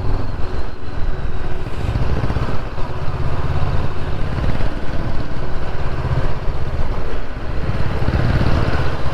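Motorcycle engine running steadily while riding, with a low rumble of wind noise on the microphone.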